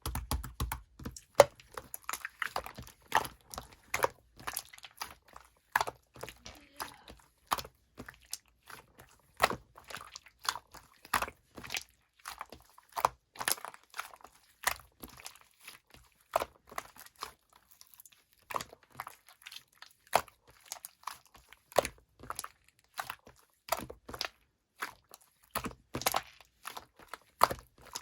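Sky-blue slime being squeezed and pressed by hand, giving sharp, irregular clicks and pops about one or two times a second.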